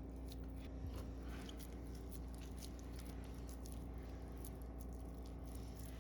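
Hands working ground moose meat into a patty: faint, irregular small sticky clicks over a steady low hum.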